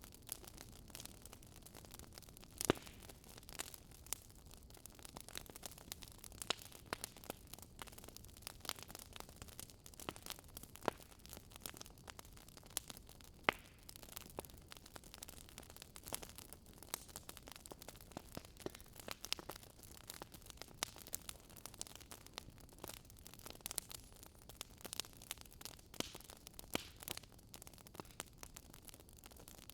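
Wood fire crackling: a soft hiss with irregular sharp pops and snaps, a few louder than the rest.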